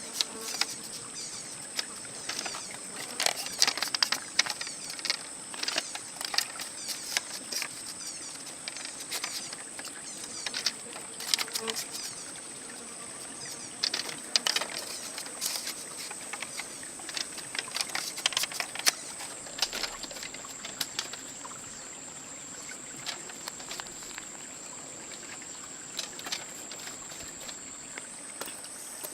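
A steady, high-pitched insect drone, crickets or cicadas, runs throughout. Over it come many irregular sharp clicks and knocks, thickest in the first half and sparser later.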